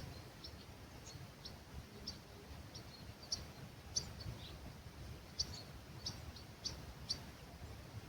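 Small songbirds giving short, high chirps at dawn, scattered and irregular, over a faint low background of breeze.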